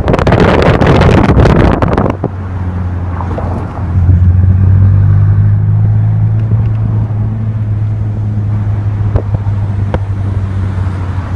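Ferrari California's V8 engine heard from the open-top cabin while driving. A loud rushing burst fills the first two seconds, then the engine settles into a steady low drone that grows louder about four seconds in.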